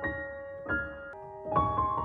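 Background music: a slow piano melody, single notes struck about every half second and left ringing over one another.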